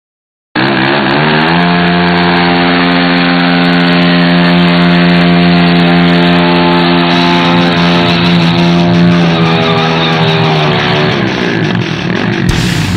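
Motorcycle engine starting up loud, revving up quickly and then held at steady high revs for several seconds, then dropping in pitch twice as the throttle comes off.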